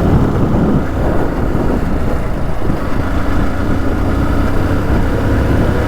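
Motorcycle engine running steadily, a low even drone.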